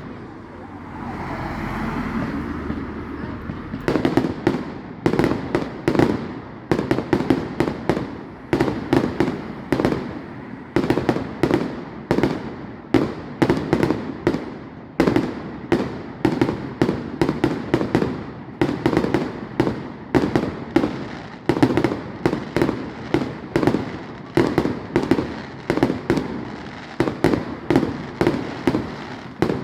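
Fireworks display: a few seconds of hiss and rumble, then, from about four seconds in, a rapid, unbroken barrage of sharp bangs and cracks, several a second.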